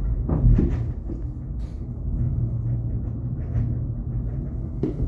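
Funicular car running along its inclined track: a steady low rumble, with a few short knocks and clunks about half a second in and another near the end.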